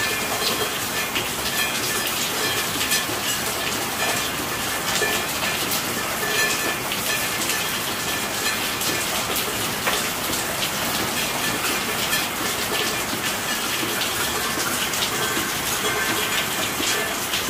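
Steady rainfall: an even hiss of rain with many separate drop hits.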